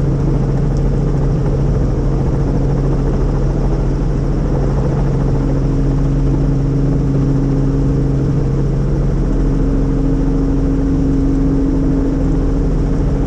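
Helicopter turbine engine and rotor running steadily: an even, loud drone with a constant low hum.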